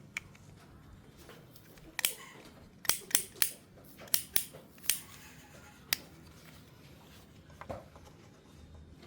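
A run of sharp, short snips, about nine, most of them clustered between two and six seconds in, typical of a hand cutting tool at work, with a duller sound near the end.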